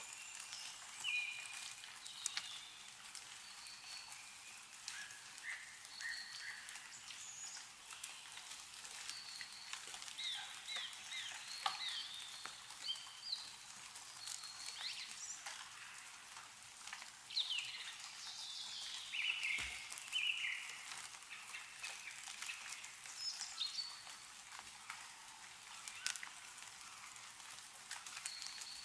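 Meltwater dripping from snow-covered trees in scattered sharp ticks, with small birds chirping and trilling in short calls throughout.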